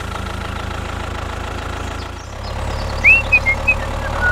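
Small engine idling steadily with a low, even rumble. A few short high chirps come in during the last second or so.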